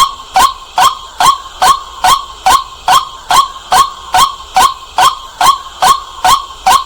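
White-breasted waterhen calling: a loud, evenly paced string of short 'kwak' notes, about two to three a second without a break. This is the kind of waterhen call played to lure the birds.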